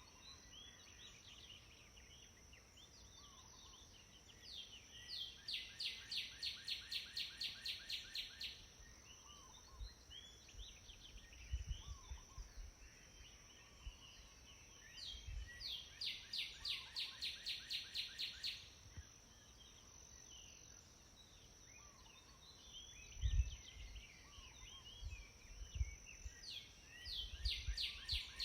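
Birdsong: one bird repeats a fast, even trill of about five notes a second, each song about three seconds long, roughly every ten seconds, with other birds chirping between. A steady high insect whine runs underneath, and there are a few low thumps.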